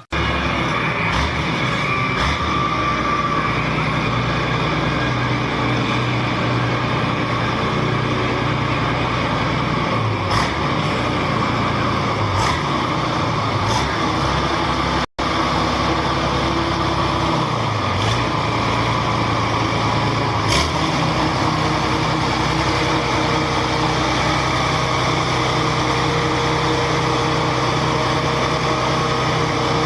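A large motor vehicle engine running steadily, its pitch dipping briefly and climbing back a couple of times, as when the throttle is eased and reopened. The sound cuts out for an instant about halfway through.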